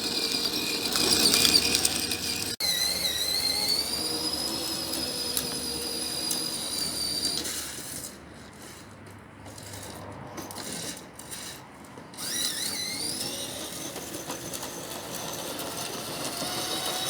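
Children's electric motorcycle's small electric drive motor and gearbox whining as it drives, the pitch rising and falling with speed. It drops away and stutters on and off for a few seconds in the middle, then picks up again.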